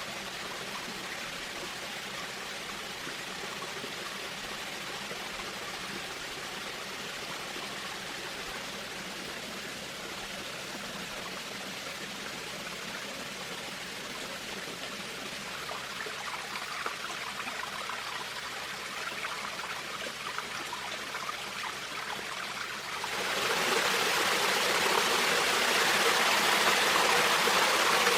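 Running stream water, a steady rushing and trickling. Near the end it suddenly becomes louder and brighter.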